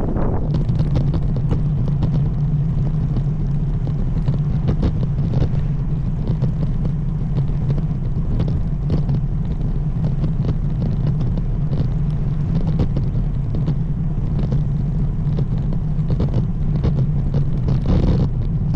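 Steady low rumble of wind and road noise while riding a road bike, with frequent small ticks over it.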